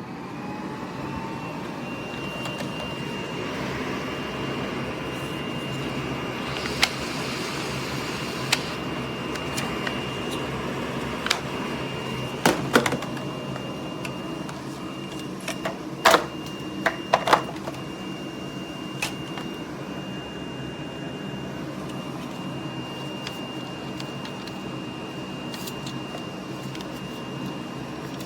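Miele Blizzard CX1 bagless canister vacuum running steadily, a whooshing of air with a high, steady whine from its motor. Sharp clicks and rattles sound now and then, most in the middle.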